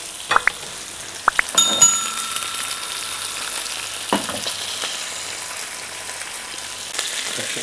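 Small anchovies sizzling steadily as they fry in coconut oil in a small pan. About one and a half seconds in, a few short clicks and a single bell ding sound over the frying, the ding ringing for about two seconds.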